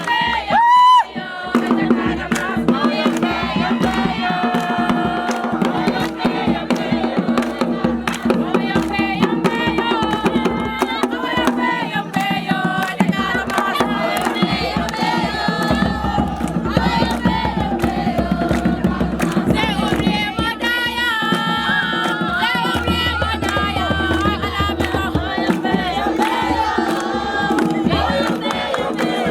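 A crowd singing and chanting together to percussion and clapping, over sustained low tones. A short, loud cry stands out about a second in.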